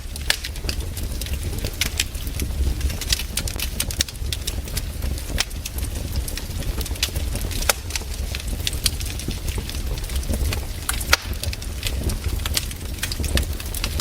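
Wood campfire crackling: many irregular sharp pops and snaps over a steady low rumble.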